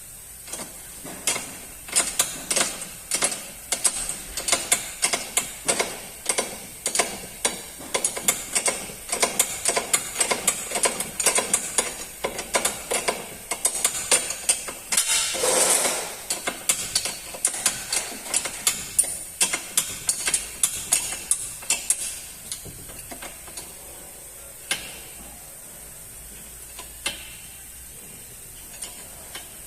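Hand ratchet wrench clicking in quick strokes, tightening the fasteners of a newly fitted front suspension ball joint. There is a brief rasping burst about halfway through. The clicking stops at around three quarters of the way, leaving only a few scattered clicks.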